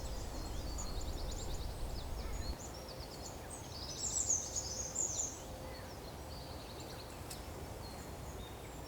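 Small woodland songbirds calling: short, high, quick series of chirping notes and twitters, several phrases in the first seven seconds, over a faint steady woodland hiss. Low wind rumble in the first couple of seconds.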